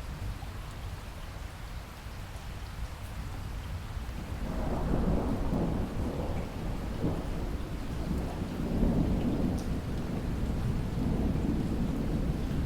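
Steady rain with a low rumble, and rolling thunder that swells up about four seconds in and keeps rumbling on.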